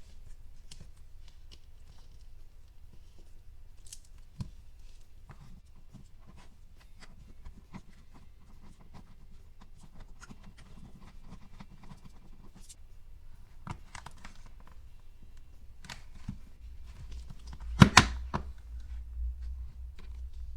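Small plastic toy tools and molds of a Play-Doh play set being handled: scattered light clicks and taps as pieces are picked up, pressed and set down. A louder sharp double knock near the end as a plastic piece is put down hard.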